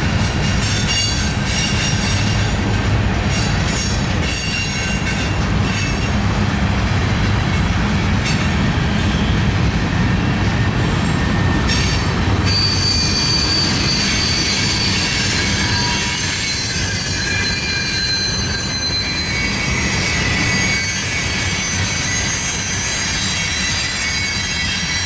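Norfolk Southern mixed freight train rolling past: a steady loud rumble of wheels on rail. Thin high wheel squeal comes in and grows stronger about halfway through.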